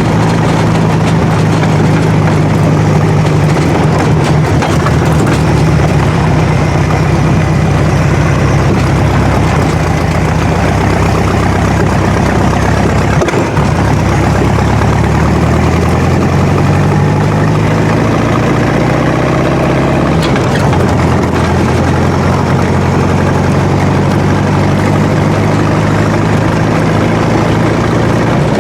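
VW-based dune buggy's engine running under way as it is driven, its pitch rising and falling with the revs. The engine note breaks off briefly about 13 and 20 seconds in, then climbs again.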